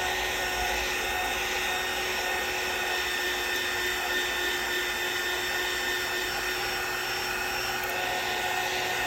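Hot-air blower running steadily, its fan giving an even rushing noise with a constant whine, heating a phone's back glass to soften the adhesive holding it on.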